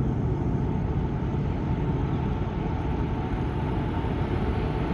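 Union Pacific freight train's diesel locomotives running, a steady low rumble.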